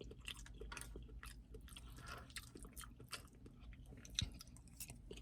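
A person chewing a mouthful of food, faint and close, with many small wet clicks from the mouth; one slightly louder click about four seconds in.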